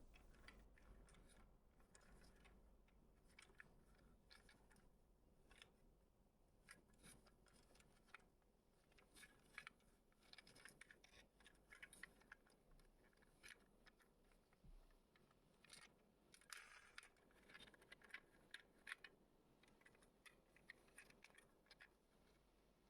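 Near silence with faint, scattered small clicks, most of them around the middle and later part, from diecast model cars being handled.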